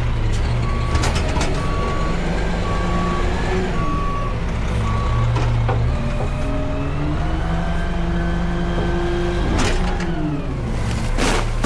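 Front-load garbage truck with its diesel engine running and its reverse alarm beeping steadily, about once every 0.8 seconds, for the first five seconds. After the beeping stops, the engine pitch rises for a few seconds, and a couple of sharp bangs or hisses come near the end.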